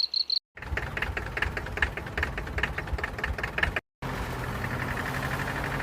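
Small motor of a DIY mini tractor running with a fast, even knocking rhythm, cut off twice by brief silences.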